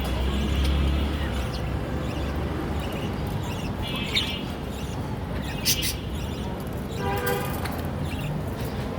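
Small pet parrots chirping a few times over a steady low rumble of traffic noise.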